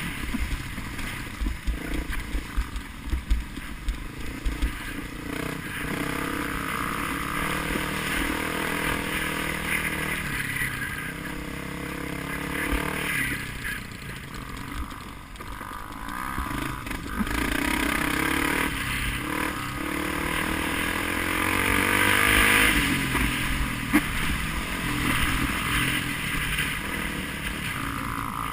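A vehicle engine running with road noise, with a few sharp knocks a few seconds in.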